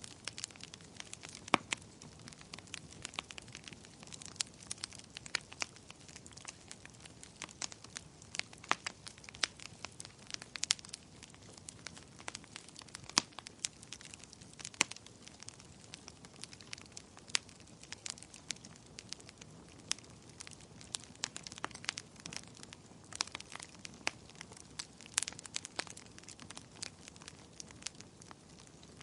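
Wood fire crackling in a fireplace: irregular sharp pops and snaps over a soft steady hiss, with a few louder pops standing out.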